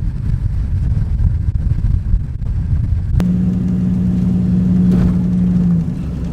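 Pickup truck engine running as the truck drives slowly along a dirt road, with a steady low rumble. About three seconds in there is a sharp click, followed by a steady low hum that eases slightly near the end.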